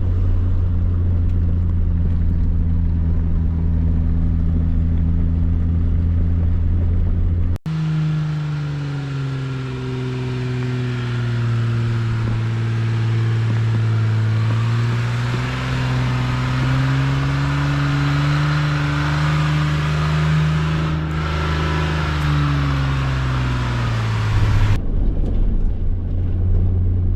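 Jeep Wrangler Rubicon engine running as it drives a dirt trail, its note slowly rising and falling with the throttle over a hiss of tyre and road noise. The sound cuts sharply about seven and a half seconds in and again near the end, where a steadier, even drone takes over.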